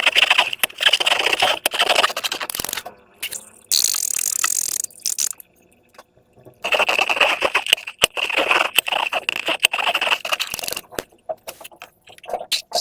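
Slime being squished and stretched by hand, giving dense crackling and clicking sounds in two long stretches with a short hiss between them.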